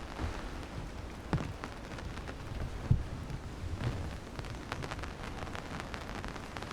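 Rain falling steadily, with many close drops ticking sharply on nearby surfaces and a few low thumps, the strongest about a second and a half in and again about three seconds in.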